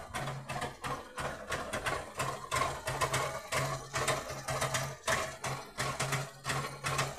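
Trabant car engine running, an uneven rapid mechanical clatter with a low hum that comes and goes.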